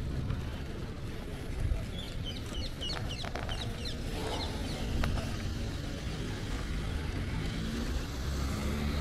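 Street ambience: a steady low rumble of traffic and outdoor noise. About two seconds in, a small bird gives a quick run of high chirps, with a few more chirps a second or so later.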